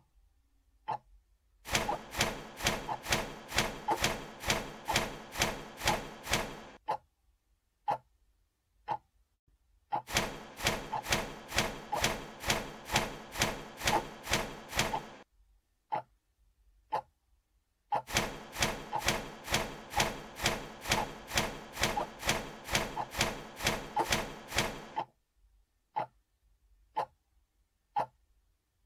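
Rapid, evenly spaced mechanical clacking, about four strokes a second over a steady hum, in three bursts of about five seconds each, with single sharp ticks about once a second in the pauses between them.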